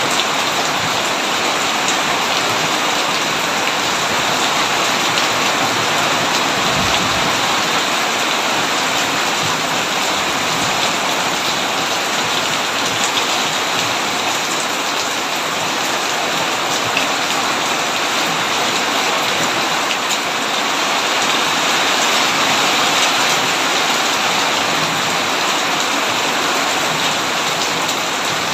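Heavy rain falling steadily on a tin roof, an even hiss with no breaks or thunder.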